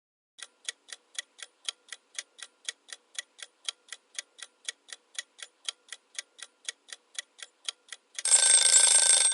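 Quiz countdown-timer sound effect: a clock ticking evenly, about four ticks a second, then an alarm bell ringing loudly for about a second near the end as time runs out.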